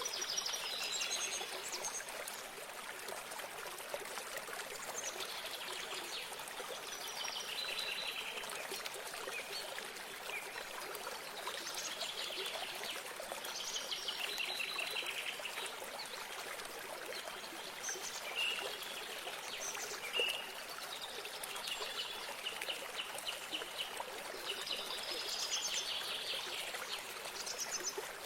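Steady running water, like a trickling stream, under songbirds singing short phrases of quick high notes that recur every few seconds.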